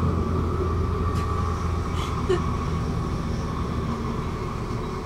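Electric commuter train heard from inside the carriage while running between stations: a steady low hum and rumble of wheels on rails, with a few faint clicks and rattles, easing slightly in loudness.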